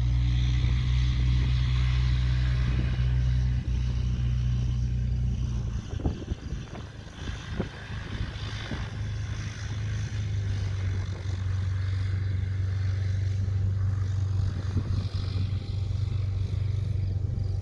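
Steady engine drone that fades about six seconds in, with gusty wind buffeting the microphone for a few seconds. The drone then comes back at a slightly different pitch.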